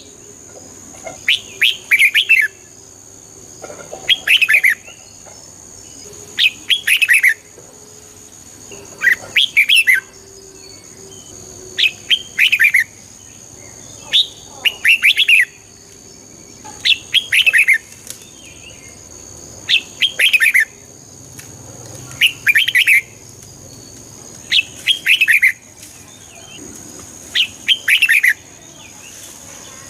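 Red-whiskered bulbul singing: short, quick phrases of chirping notes repeated about every two and a half seconds. A thin, steady high whine runs underneath.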